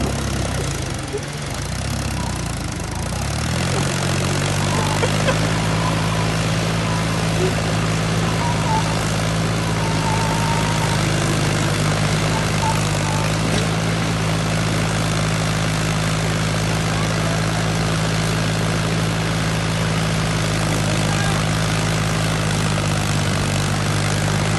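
A vehicle engine running steadily, its pitch shifting during the first few seconds and then holding constant.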